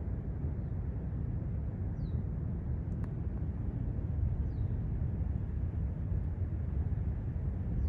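Steady low rumbling roar of an erupting lava fountain, with a few faint short chirps high above it.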